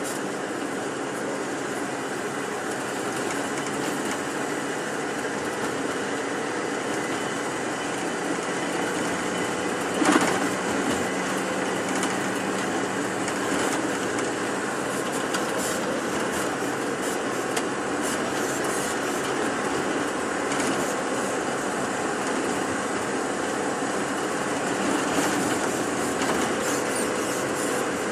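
Steady engine and road noise heard from inside a moving tour bus, with a single sharp knock about a third of the way through.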